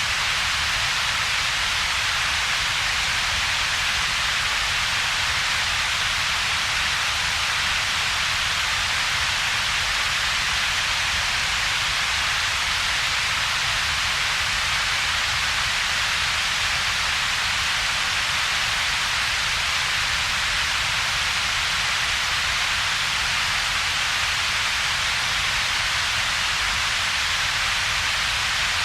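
Steady synthetic double-peaked noise: a low rumble band and a brighter hiss band with a gap between them, unchanging throughout. It has the rain-like character of colored noise made for sleep and calm.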